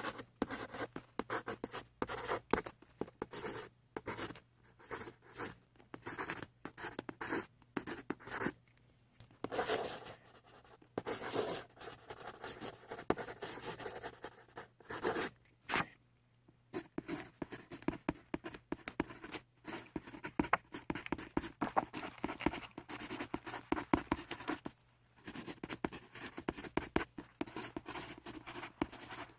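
Pencil scratching on paper in rapid shading strokes, with a few brief pauses, over a faint steady low hum.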